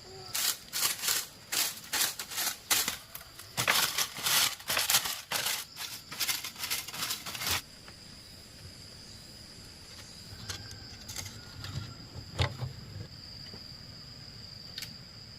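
A quick run of crackling, rustling handling noises for about seven seconds, then a few scattered clicks, over a steady high-pitched insect drone.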